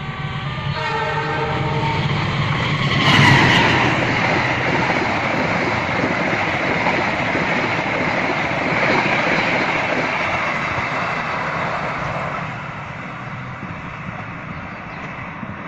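Passenger train passing, its wheels rattling over the rails. The noise builds, is loudest about three seconds in, then eases off after about twelve seconds.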